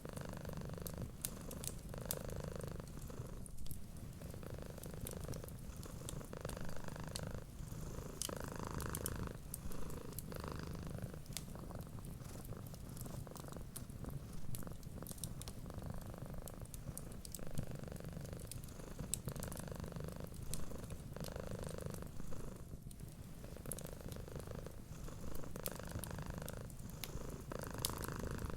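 Cat purring steadily, swelling and easing with each breath about every two seconds, over a wood fire crackling with frequent small sharp pops.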